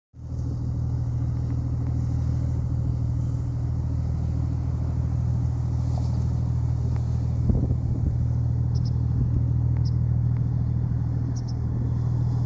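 Fishing boat's diesel engine running at a steady low idle, a deep even hum. A single knock about seven and a half seconds in, and a few short high chirps near the end.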